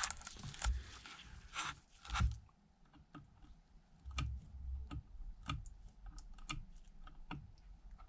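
Scattered light clicks and taps of small repair tools and the iPad's case being handled on the work surface, irregular and a few per second at most.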